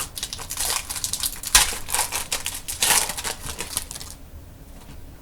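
A foil trading-card pack being torn open, the wrapper crinkling and crackling, which stops about four seconds in.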